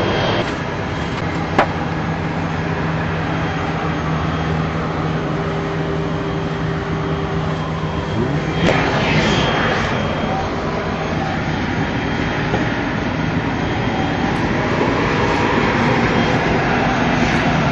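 Steady aircraft engine noise with a low held hum, and a single sharp click about a second and a half in.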